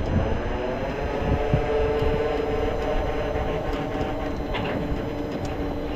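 Tow truck's engine and winch running steadily as the Jeep is pulled up onto a wheel skate, a held hum with a tone that wavers slightly in the middle.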